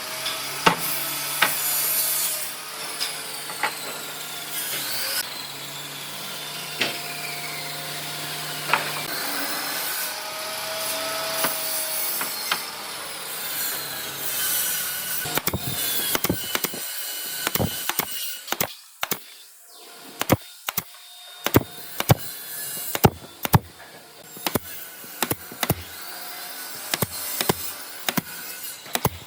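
Woodworking tools working on wood: a power tool runs with a wavering whine for the first half, then sharp, irregular knocks and taps on wood take over.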